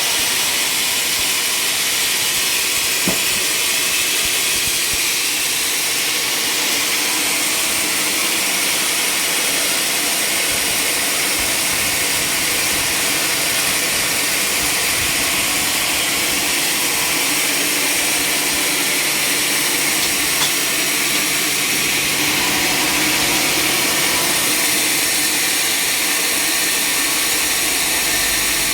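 Sawmill machinery running steadily: a constant hissing noise.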